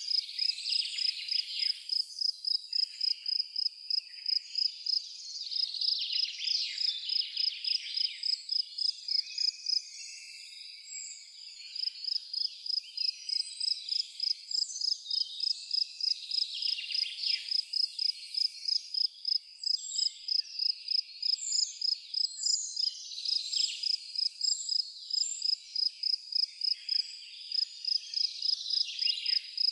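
Crickets chirping in an even, high-pitched rhythm of about two to three chirps a second, stopping briefly about a third of the way through. Birds chirp and call over them, with a few short high calls about two thirds of the way in.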